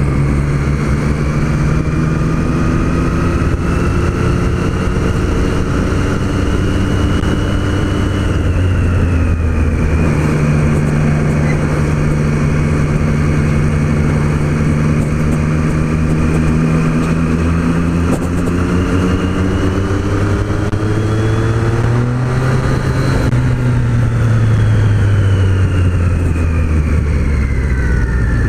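Triumph Street Triple's inline three-cylinder engine under way. The revs climb slowly, dip about nine seconds in, climb again, and then fall away over the last several seconds.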